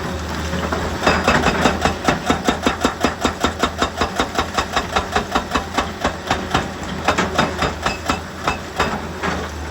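Hydraulic rock breaker hammering at rock, a fast even run of sharp blows about five a second over the steady drone of a diesel engine. The blows start about a second in and stop shortly before the end.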